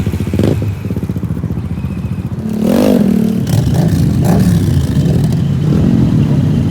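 Small mini bike engines running during a group ride. A rapid pulsing exhaust note runs throughout, and a louder pitched rev swells and wavers about three seconds in.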